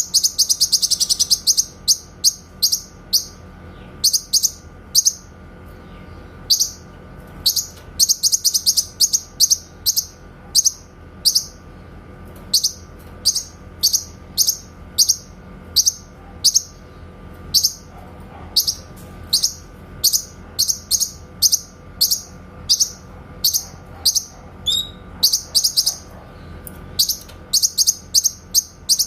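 Cucak kinoy singing: short, sharp, high whistled notes repeated about twice a second, broken by fast rapid-fire volleys ("tembakan") at the start and again about eight seconds in.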